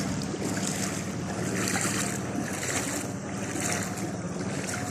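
A motor running steadily under a constant rush of water and wind noise on the microphone, in a rain-flooded street.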